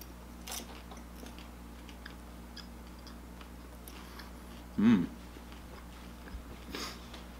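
A person chewing candy-coated popcorn, with scattered soft crunches. About five seconds in comes one short, loud sound from the throat.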